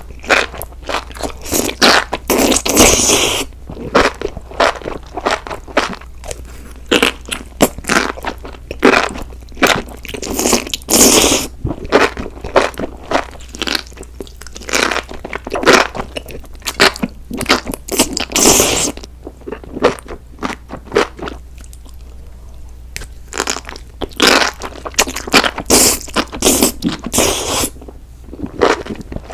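Close-miked eating of spicy enoki mushrooms: crunchy biting and chewing, with a few longer, louder bursts and a quieter stretch about two-thirds of the way through.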